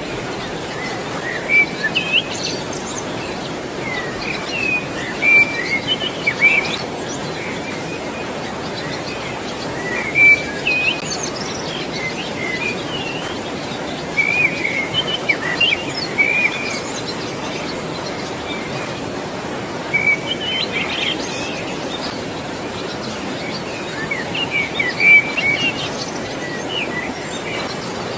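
Birds chirping and calling in short clusters of high whistles over a steady rush of flowing water.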